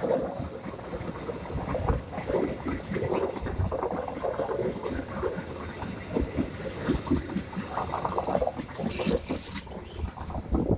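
Passenger coaches of a passing train: steel wheels clattering and knocking irregularly over the rails under a steady rumble, with a brief hiss about nine seconds in.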